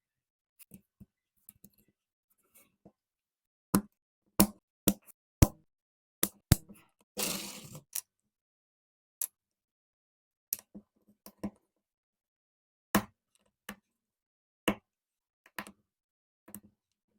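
Plastic Lego bricks clicking and snapping together and being set down: a dozen or so sharp, irregular clicks, with a short rustling clatter about seven seconds in.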